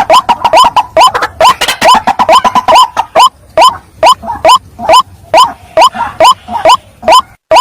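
White-breasted waterhen (ruak-ruak) giving its repeated harsh 'kruak' call, each a short rising note. The calls crowd at about three a second in the first half, then fall into an even beat of about two a second.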